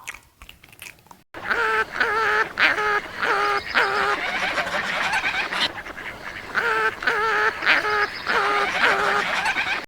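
Waterfowl calling: a run of short, repeated quack- or honk-like calls, several a second in bunches, starting after about a second of near silence.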